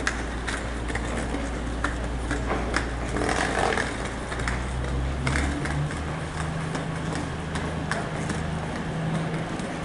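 Diesel passenger train's engines running as it moves slowly along the track: a steady low drone, with a higher steady hum coming in about halfway through, over scattered sharp clicks.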